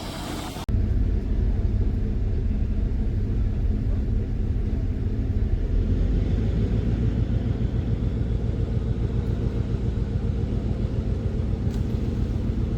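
A vehicle's engine running steadily, a loud low rumble that starts abruptly about a second in.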